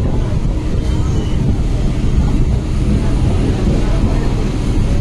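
Steady low rumble of an electric suburban train running along the platform, heard from its open doorway, with wind buffeting the microphone.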